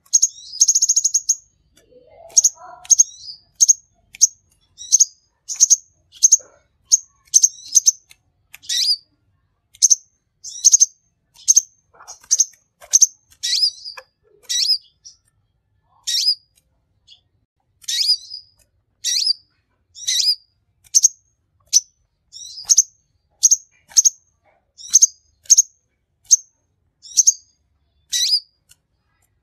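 Kolibri ninja sunbird (konin) singing: a quick high twittering trill at the start, then a long run of short, sharp, high chirps at about one a second.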